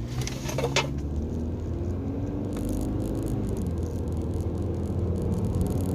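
2007 Subaru Outback accelerating from a stop: the engine note climbs as the car gathers speed over a steady deep low hum. The owner believes the hum is a bad rear wheel bearing, a constant deep whirl that builds with road speed.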